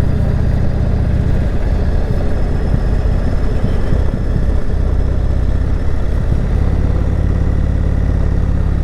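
Indian Chieftain Dark Horse's V-twin engine running steadily while riding. Its low note shifts and settles about two-thirds of the way through.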